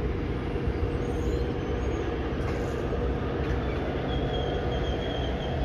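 Train passing on the tracks: a steady, loud rumble of wheels on rail, with a thin high squeal joining about four seconds in.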